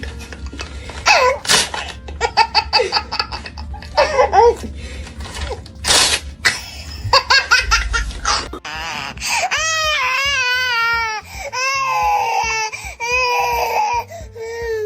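A baby laughing hard in short, shrieking bursts, then about nine seconds in, long, high, wavering squeals.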